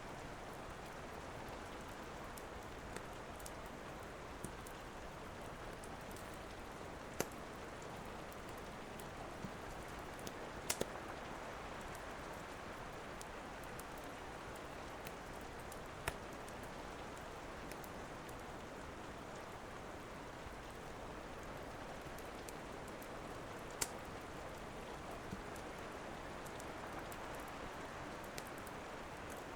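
Steady rain hiss with the sharp, scattered pops of a crackling wood fire. The pops come every few seconds, the loudest a double pop about eleven seconds in.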